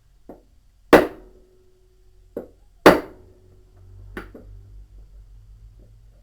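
Hammer blows on metal while seating a washing machine drum bearing in its housing: two hard strikes about two seconds apart, each leaving a brief metallic ring, with lighter taps before, between and after them.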